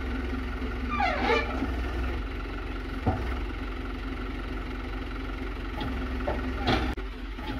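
Hino Dutro 130 HD dump truck's diesel engine idling steadily, with a short falling whine about a second in and a few sharp knocks.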